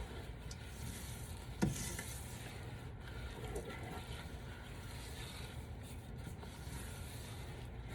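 A spoon stirring thick no-bake cookie mixture of oats and cocoa syrup in a pot, a steady scraping, with a single knock about one and a half seconds in.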